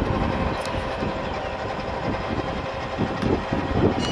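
Long freight train rolling away on the rails: a steady rumble with irregular wheel clatter.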